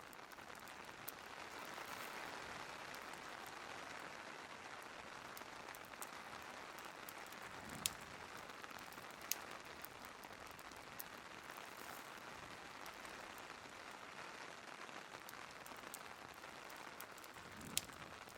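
Steady rain hiss with a fireplace crackling over it: scattered sharp pops, the loudest about eight seconds in and again near the end.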